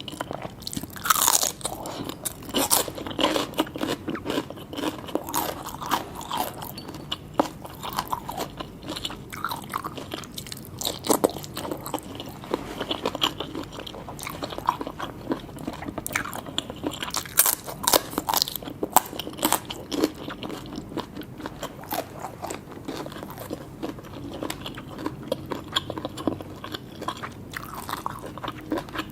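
A person biting and chewing seafood, with many short crunches at an irregular pace.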